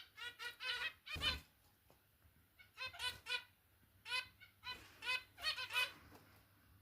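Zebra finches giving short, nasal, beeping calls in quick clusters of several calls each, with gaps between clusters. A brief thump sounds about a second in.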